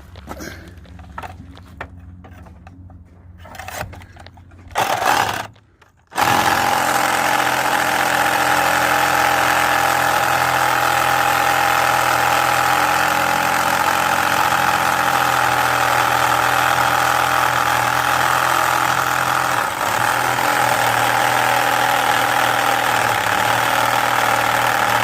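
Cordless power tool cutting through rusted steel: a short burst about five seconds in, then a long steady cut.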